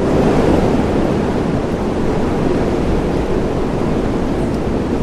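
Recorded wind sound effect: a steady, loud rush of wind, played as the answer to a riddle about the wind.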